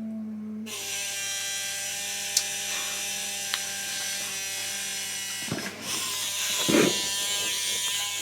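A small electric motor whirring steadily, starting about a second in, with a brief louder knock or rustle near the end.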